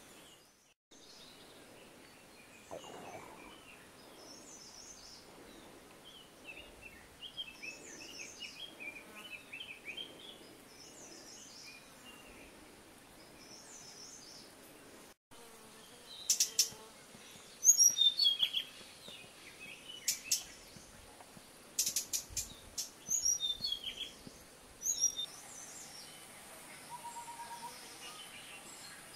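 Wild birds chirping and calling in forest, with short chirps scattered throughout and louder, sharp calls in quick clusters in the second half. A steady high hiss runs underneath.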